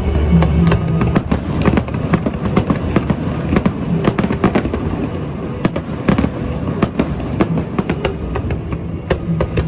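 Aerial fireworks going off in a dense, rapid run of crackling pops and bangs that overlap one another throughout.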